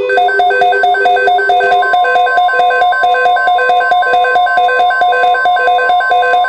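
Rapid electronic beeping alert tones: short beeps at several pitches alternate in a fast, even, repeating pattern. A steady tone joins underneath about two seconds in.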